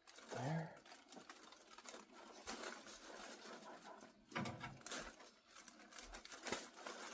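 Faint rustling and scattered light clicks and knocks from hands handling exhaust parts and hardware, with a slightly louder knock about four and a half seconds in.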